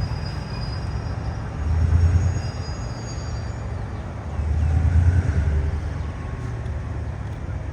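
Train running past with a deep rumble that swells and fades every two to three seconds.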